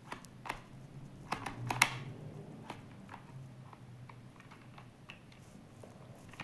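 Scattered light clicks and taps from small objects being handled, several close together about a second and a half in, the loudest near two seconds, over a faint steady low hum.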